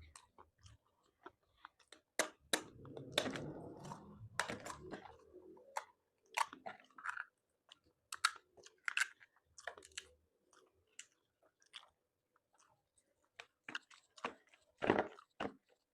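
A person chewing seafood close to the microphone: wet smacking and crunching with many short clicks. The crunching is denser from about two to six seconds in, and there is a loud crunch near the end.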